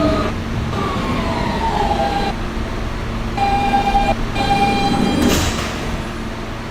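Siemens traction-motor propulsion of an R160B subway car whining as the train brakes into a station: tones falling in pitch in the first couple of seconds, then holding steady, over the rumble of the car. A brief hiss about five seconds in.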